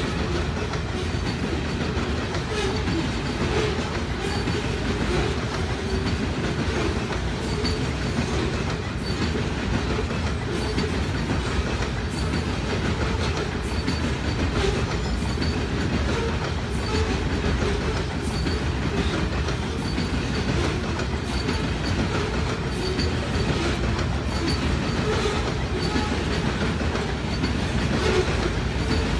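Freight train of CN covered grain hopper cars rolling past at steady speed: a continuous rumble of steel wheels on rail with a steady clickety-clack as the wheels cross rail joints, and faint high wheel squeaks now and then.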